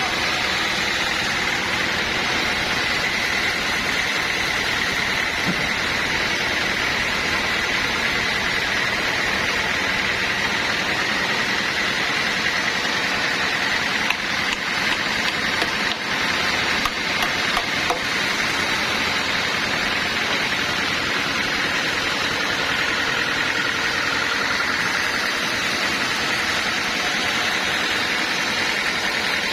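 Sawmill machinery running steadily, a high whine over a noisy hum, with a few sharp knocks about halfway through.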